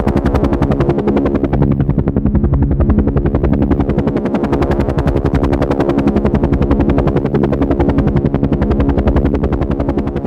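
Helicopter in flight: the rotor beating in a fast, even chop over a steady pitched engine drone, with no let-up.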